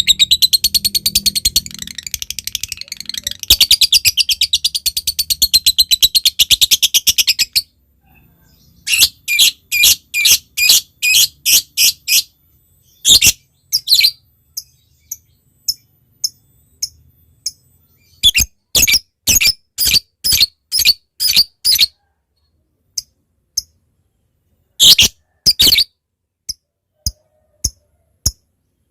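Lovebird calling: a long, rapid, high-pitched chattering trill (the 'ngekek' call) that stops about seven seconds in. It is followed by a string of sharp, separate chirps (the 'ngetik' call), about two a second, that thin out to single chirps near the end.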